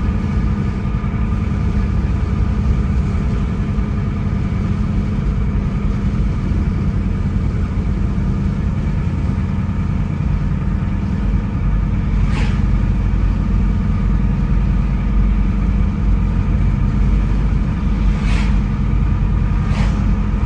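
Car driving along a road: a steady low rumble of engine and tyres, with a few short sharp clicks about two-thirds of the way in and near the end.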